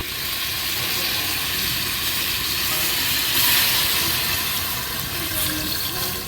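Steady sizzling hiss of cooking over a campfire.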